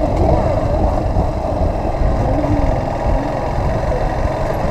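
Motorcycle on the move: wind buffeting the microphone in a dense low rumble over the running engine.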